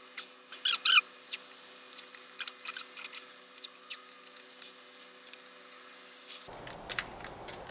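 Painter's tape being pulled off the roll and torn, with a loud crackling rip about a second in, then scattered small crackles and taps as it is pressed down.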